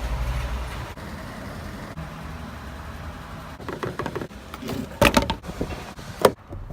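Car engine running with a steady low hum, then several clicks and knocks from about halfway through, ending in one loud thump.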